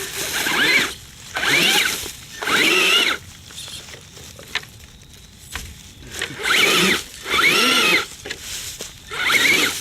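Electric motor of a radio-control truck whining in about six short throttle bursts, each rising then falling in pitch, with a pause of a few seconds in the middle, as the driver tries to move the truck while its tires are locked up.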